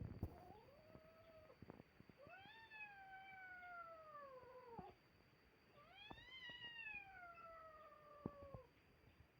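Cat yowling in a fight standoff: a short call, then two long drawn-out yowls, each rising at the start and slowly sinking in pitch. It is the threatening caterwaul of cats squaring up to fight.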